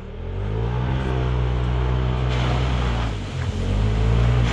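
2016 Polaris RZR Turbo side-by-side's turbocharged twin-cylinder engine pulling hard under heavy throttle, its note climbing at the start and then holding. About three seconds in it eases off briefly before pulling again, with a rushing noise building underneath.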